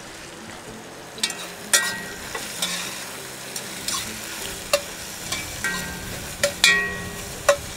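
Ginger and onions sizzling in hot oil in a pot while being stirred, a metal utensil knocking and clinking against the pot about ten times over the steady frying.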